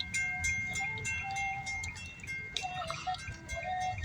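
Grade-crossing warning bell ringing in rapid, evenly repeated strikes, with a low rumble underneath.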